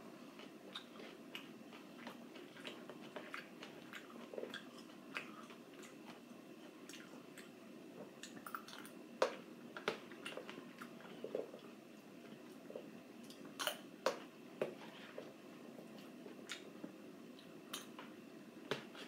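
Someone chewing blueberries, with many small irregular clicks and taps from fingers and a spoon against a plastic container, a few sharper ones around the middle.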